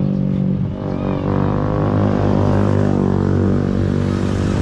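Motorcycle engine running steadily, holding a near-constant pitch with slight wavers.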